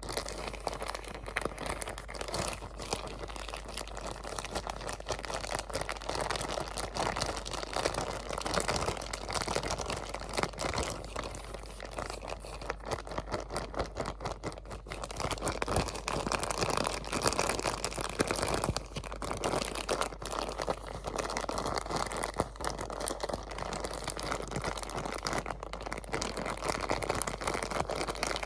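Continuous close-up crinkling and crumpling of a crinkly material, irregular crackles with no letting up.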